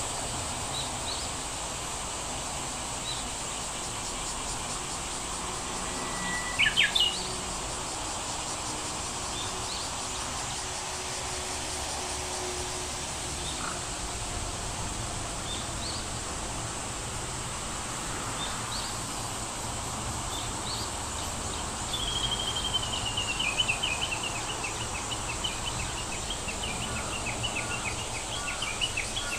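Outdoor ambience of bird calls over a steady high hiss, with scattered short chirps. A louder call comes about seven seconds in, and a long trill of repeated notes falls in pitch over the last several seconds.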